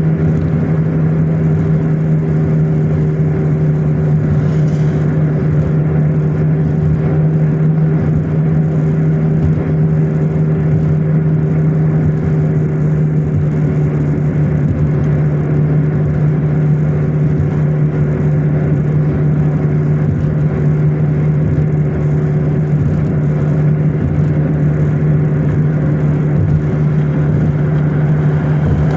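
Car driving at a steady speed: engine and road noise with a steady low drone.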